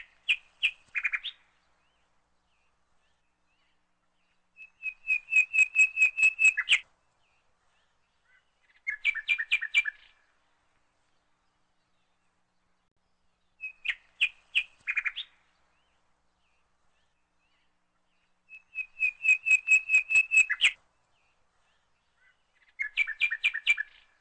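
Bird chirping in bursts of quick, high notes, about five or six a second, each burst lasting one to two seconds, with silence between. The same sequence of bursts comes round again after about fourteen seconds, like a looped birdsong track.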